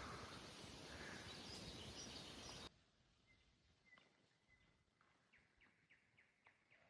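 Faint steady outdoor background with a few soft bird chirps, cutting off abruptly a little under three seconds in to near silence. A faint run of short chirps, about four a second, follows near the end.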